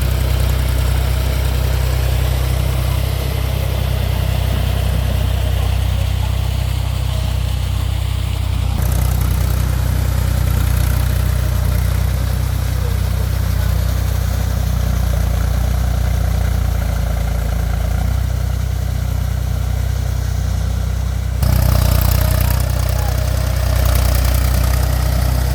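Mahindra 275 TU tractor's three-cylinder diesel engine running steadily with a low drone. The sound turns harsher and louder twice: about a third of the way through and again near the end.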